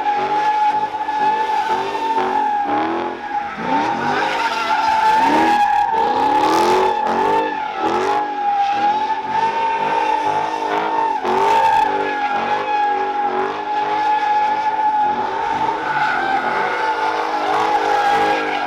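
A car's tires squealing in a long sustained slide, as in donuts or a burnout, with the engine revving up and down repeatedly underneath.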